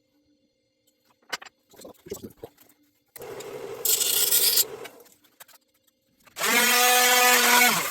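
Small electric power tool worked against wood in two bursts. First comes a rasping, sanding-like noise. Then the motor whines at a steady pitch, rising as it spins up and dropping as it stops near the end.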